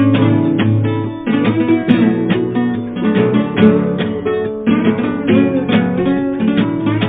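Instrumental music: acoustic guitar strummed and picked in quick, dense chords, with no singing.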